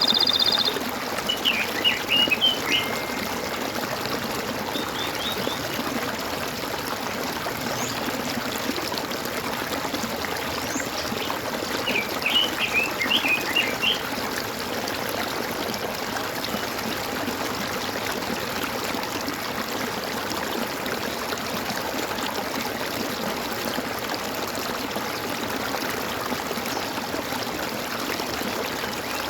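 Water trickling and gurgling in a steady stream. Small birds chirp over it in quick short bursts, about a second in and again near the middle.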